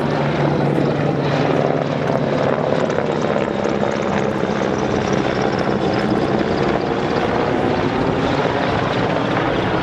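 Royal Navy Lynx display helicopter running steadily overhead: constant rotor and turbine noise, with a faint high whine that slowly falls in pitch through the second half.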